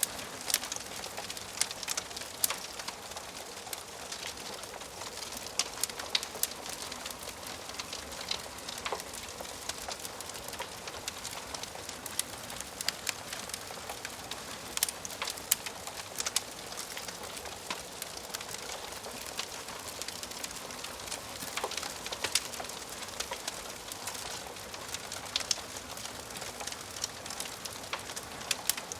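Wood fire crackling in a fireplace: a steady hiss of burning logs with frequent irregular sharp pops and snaps.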